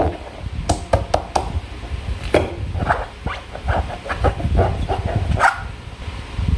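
Slime being squished and pulled by hand, giving irregular wet squelches with a run of sharp sticky clicks about a second in.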